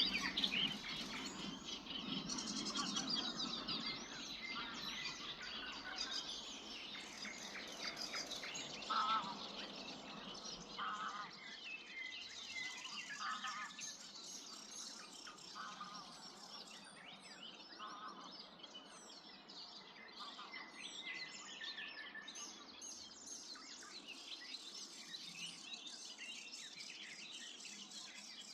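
Morning chorus of many songbirds singing and chirping at once, with shorter lower calls repeating every couple of seconds. It is loudest in the first few seconds.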